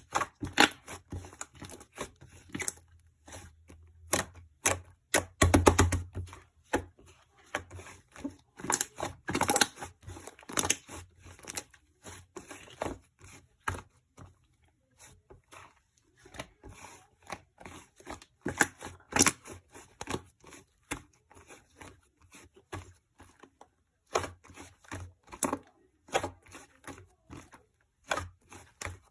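Close, irregular clicking, tapping and crinkling, like small objects, paper or plastic being handled and torn. There is a rapid run of clicks about five seconds in, and short pauses around fourteen and twenty-four seconds.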